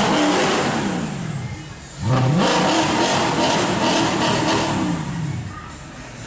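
Mercedes C63 AMG's V8 revved twice through its exhaust: the pitch jumps up sharply at the start and again about two seconds in, each time falling away slowly as the revs drop.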